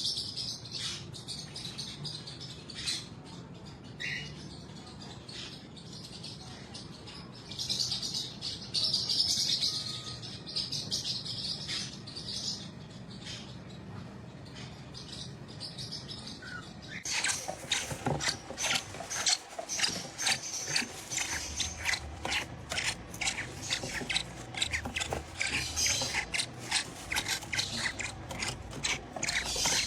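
Soft high-pitched chirping and tweeting from a pet parrot. About halfway through it gives way to a dense run of rapid clicks and scratching.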